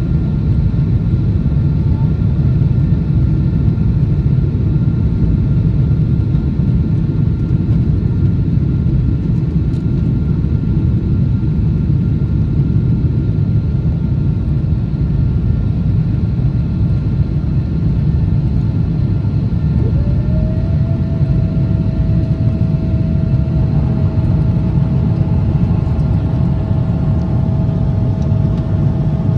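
Boeing 777-200ER's jet engines running at high power during takeoff and climb, heard inside the cabin as a loud, steady rumble. A steady whine comes in about two-thirds of the way through and holds to the end.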